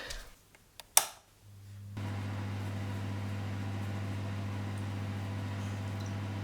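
A sharp click about a second in, then an electric appliance starts up and hums steadily at a low pitch.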